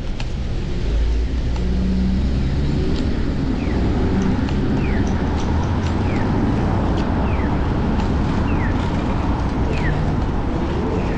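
Street traffic and wind noise rumbling steadily on a camera carried on a moving bicycle, with a short, high falling squeak repeating about once a second.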